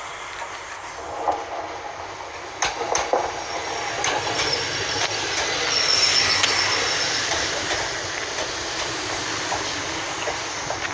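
Passenger train led by driving van trailer 82143 moving slowly through the station, its wheels knocking over rail joints. A brief high wheel squeal comes about six seconds in.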